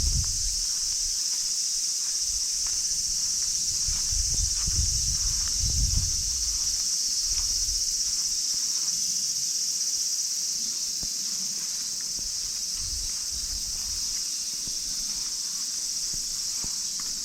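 Steady, unbroken high-pitched chorus of insects shrilling. Scattered faint ticks and a few low muffled thuds and rumbles come underneath it, strongest around four to six seconds in.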